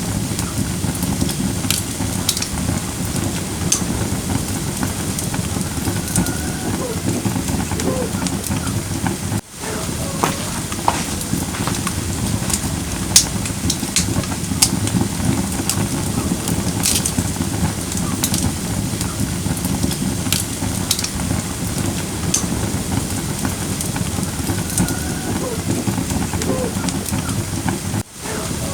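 Firewood burning in a fire pit: a steady low rush of flames with scattered sharp crackles and pops. The sound drops out briefly about nine seconds in and again near the end.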